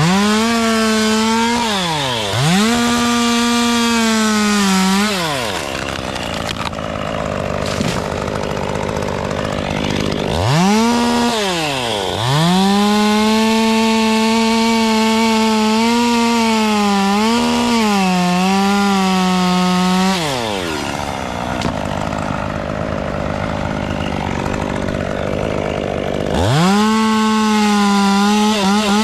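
Two-stroke chainsaw revving to full throttle in several bursts and dropping back to idle in between. In the longest burst, about eight seconds, the engine pitch dips and wavers as the chain bogs under load in the wood.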